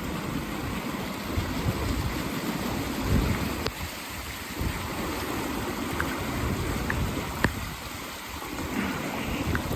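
Rain-swollen creek running high and fast after heavy rain, a steady rush of water, with a few brief sharp ticks, the sharpest about seven and a half seconds in.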